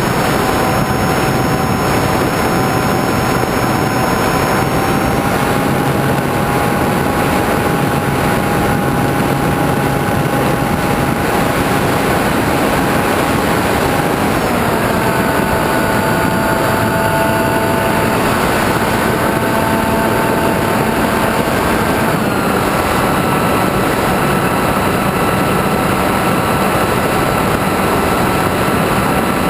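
A radio-controlled FPV model airplane's motor and propeller droning steadily under heavy wind rush, as heard by the onboard camera. The motor's pitch shifts about halfway through and again a little later, as the throttle changes.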